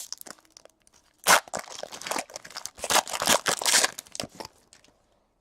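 Foil trading-card pack wrapper torn open and crinkled by hand, a sharp rip about a second in, then a few seconds of crackling and crumpling.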